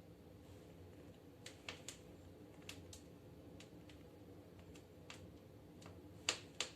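Wood fire crackling in a fireplace stove: sparse, irregular sharp pops and snaps, the two loudest near the end.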